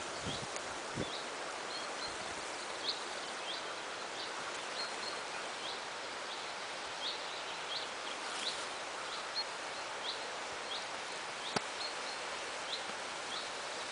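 Quiet open-air ambience: a steady hiss of background noise with a small bird's short high chirps repeating every half second or so, and one sharp click near the end.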